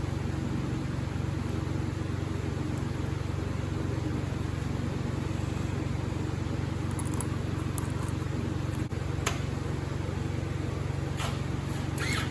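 Portable generator engine running steadily with an even low drone, with a few light clicks and taps near the end.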